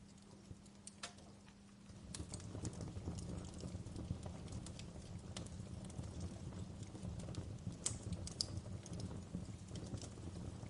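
Wood fire crackling in a fireplace: scattered sharp pops and snaps over a low rumble of flames that swells up about two seconds in.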